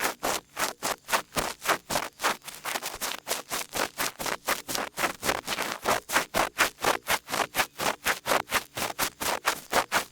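Small ear pick scraping in quick, even strokes, about four a second, for ASMR ear cleaning.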